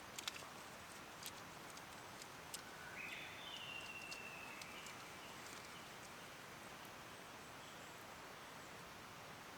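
Quiet open-air ambience with a short, faint bird call about three seconds in, and a few light clicks near the start.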